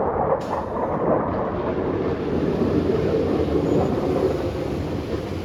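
Low-flying fighter jet passing over: loud, steady jet engine noise.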